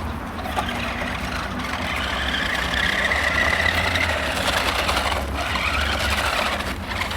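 Electric motor and gears of a radio-controlled toy monster truck whining as it drives, the pitch rising and falling with the throttle.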